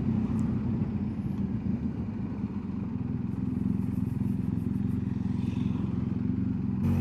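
BMW R1250 GS Adventure's boxer-twin engine running steadily at an even pitch while the motorcycle cruises along the road.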